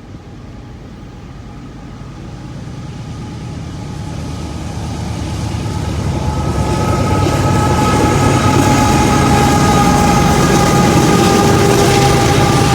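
Union Pacific freight train led by GE diesel locomotives approaching, growing steadily louder over the first eight seconds and then staying loud, with a deep engine rumble under it. Several steady high tones join in about six seconds in.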